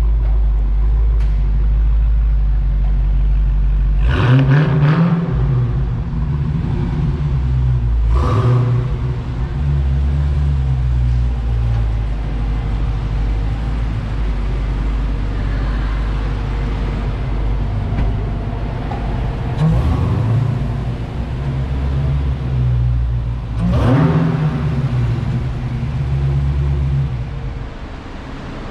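Supercar engine running with a deep, steady rumble at low speed, cut by several short, sharp revs.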